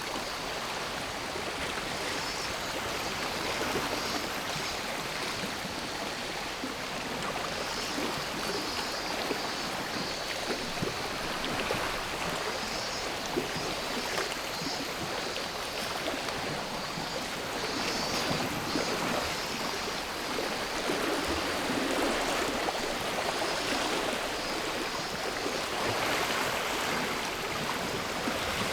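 Sea waves washing onto a shore in slow, gentle swells, with a steady high drone of cicadas over them.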